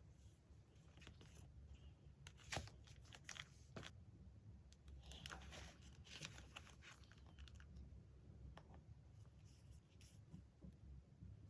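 Faint paper handling: rustling and crinkling with a few sharp clicks, the loudest click about two and a half seconds in and a longer stretch of rustling around the middle.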